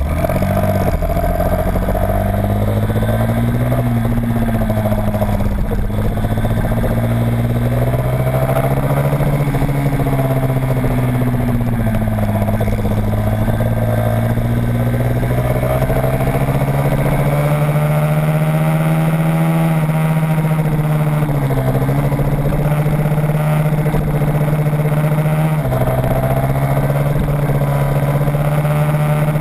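Small motorcycle engine heard onboard at racing speed, its pitch rising and falling as the throttle is worked through the corners, with two brief dips in the second half.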